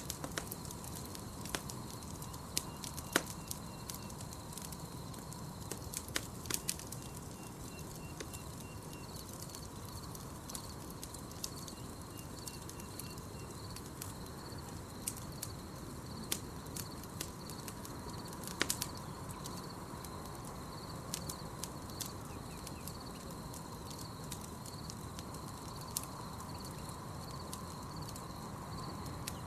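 Campfire crackling, with scattered sharp pops, over a steady night-forest insect chorus that pulses evenly at a high pitch. A few short, high, rapid trills come in the first half.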